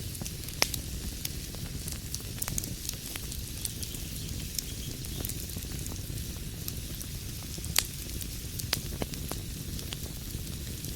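Wood fire crackling in a fireplace: a steady low rumble and hiss of burning, dotted with irregular sharp pops and snaps, two of them louder, one near the start and one about two-thirds of the way through.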